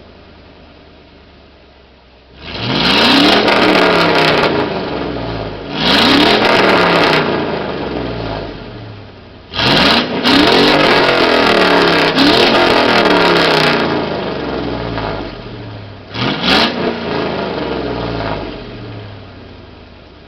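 Chevy Silverado engine running through a straight-piped exhaust with no catalytic converters and a turndown tip. It idles, then is revved four times, each rev rising and falling back to idle; the third is held longest. The exhaust is pretty loud, with a cackle.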